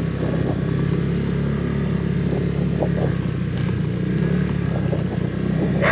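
Honda PCX 160 scooter's single-cylinder engine running steadily with no change in pitch.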